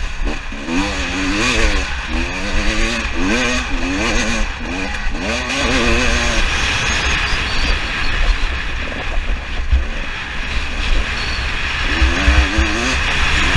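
2018 KTM 300 TPI two-stroke dirt bike engine being ridden, its revs rising and falling over and over as the throttle is worked. The revs settle for a few seconds past the middle, then climb and fall again near the end, over a steady low rumble.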